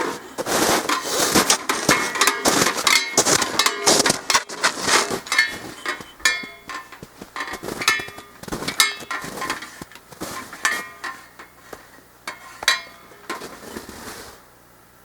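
A rapid series of knocks and clinks, some with a short metallic ring, thinning out to occasional single knocks in the second half.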